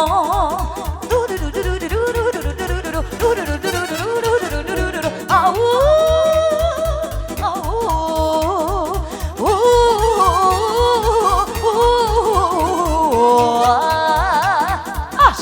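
Romanian folk party music played live: a heavily ornamented, trilling lead melody over a steady bass beat, with no singing.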